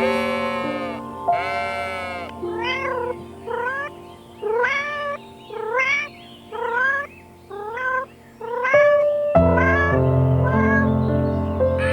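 Cat meowing over background music: two drawn-out meows, then a quick run of about nine short rising meows, after which the music grows louder.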